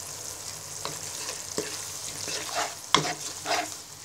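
Masala paste sizzling in hot oil in a karai while a spatula stirs it, with a few short scrapes of the spatula against the pan, the sharpest about three seconds in.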